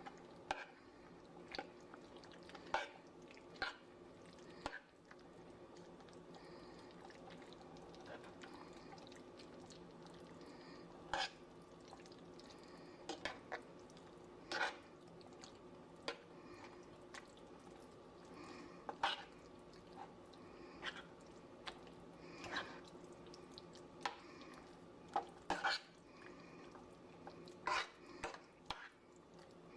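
Crawfish filling being stirred in a pan of thick creamy sauce: a spoon scraping and clicking against the pan at irregular moments, over a faint steady hum.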